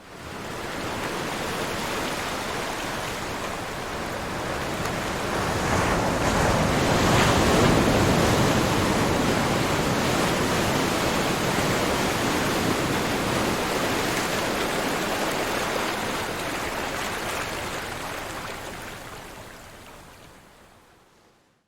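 Ocean surf: a steady wash of breaking waves that swells to its loudest about eight seconds in, then slowly fades away near the end.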